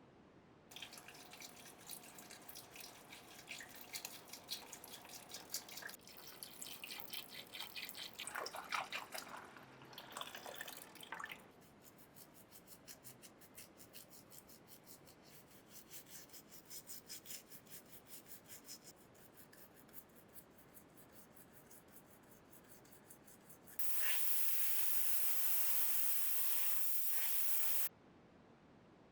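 Fast scraping strokes against a hard surface for about ten seconds, then a lighter, rapid, even rasping. Near the end comes a loud, steady spray hiss lasting about four seconds that cuts off abruptly.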